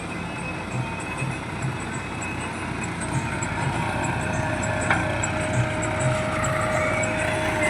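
Diesel engine of heavy loading machinery running steadily with a fast low throb, a thin steady whine coming in about three seconds in.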